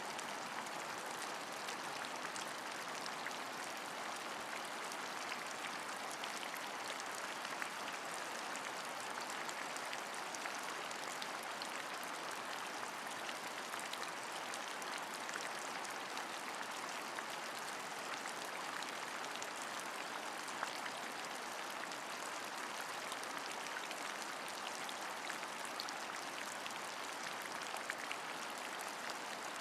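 Steady rain, an even hiss dotted with many small sharp ticks of individual drops.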